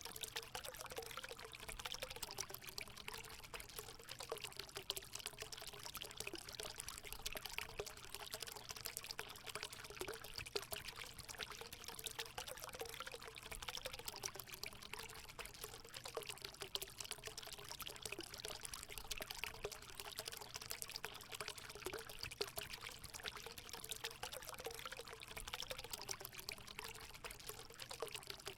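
Water running and pouring steadily into a hot spring pool, a continuous splashing trickle with a faint gurgling tone.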